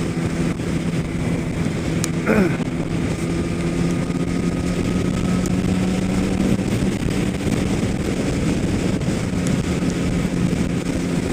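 Kawasaki ZX-10R sport bike's inline-four engine running steadily at cruising speed on the freeway, with wind rushing over the microphone.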